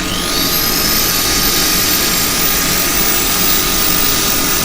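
Handheld power sander with a 320-grit disc spinning up with a quickly rising whine, then running steadily as it sands the cherry wood turning on the lathe. The lathe's steady running noise continues underneath.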